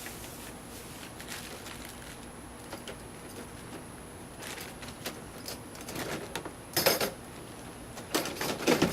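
Beekeeping gear being handled at the hive: a quiet stretch, then a series of short clicks and scrapes, with the loudest sharp knocks near seven seconds and again near the end.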